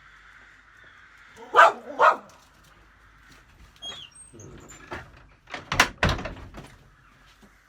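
A dog barking: two loud barks about half a second apart, then another short burst of loud, sharp barks or knocks around six seconds in, over a faint steady hum.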